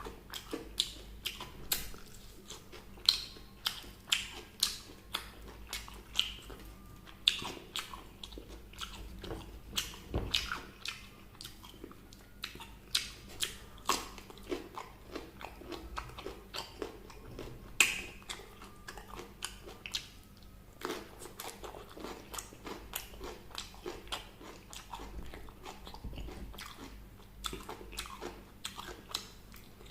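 Close-miked eating of fried chicken: crisp crunching bites and wet chewing, with many sharp crackles a second in an uneven rhythm.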